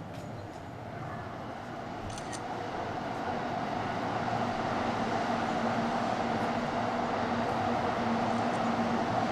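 A train approaching, its running noise growing steadily louder, with a steady motor hum coming in a few seconds in.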